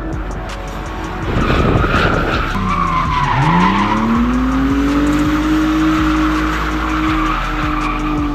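Car drifting with its tyres squealing. About three seconds in, the engine note drops, then revs up and is held high for the rest of the slide.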